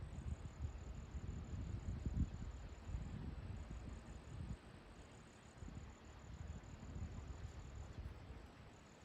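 An insect, cricket-like, trilling: a high, steady-pitched pulsing that stops briefly twice, once in the middle and once near the end. Under it runs an uneven low rumble.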